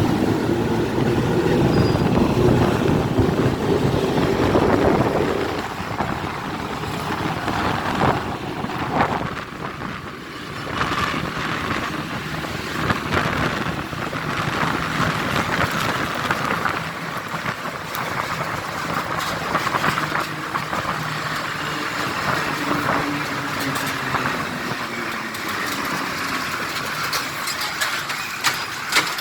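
Road traffic noise with vehicles running and passing. The low engine rumble is strongest in the first five seconds or so, then gives way to a steadier hiss with scattered clicks.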